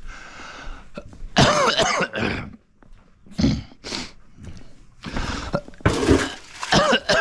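Goats bleating: long calls with wavering pitch about a second in and again near the end, with short harsh rasping calls in between.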